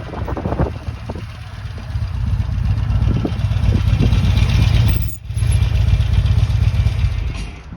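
Motorcycle engine running, with heavy wind rumble on the microphone, broken by a brief dropout about five seconds in.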